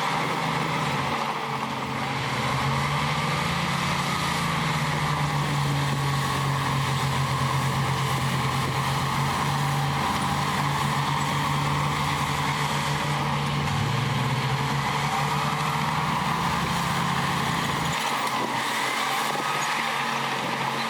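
Heavy earthmoving machine's diesel engine running steadily. Its pitch rises about two seconds in and drops about fourteen seconds in.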